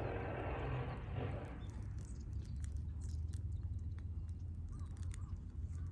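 Wood burning in a fire pit, crackling with sparse sharp pops over a low steady rumble; a rushing noise dies away in the first second and a half.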